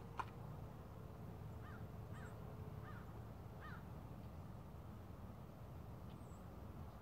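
A single sharp crack just after the start from the air-rifle shooting, then a bird calling four times in short arched calls, over a low wind rumble on the microphone.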